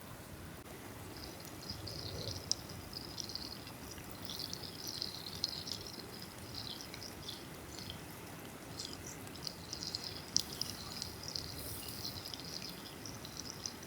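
Small birds twittering and chattering without pause, high-pitched, over a low steady background rustle, with a few sharp clicks.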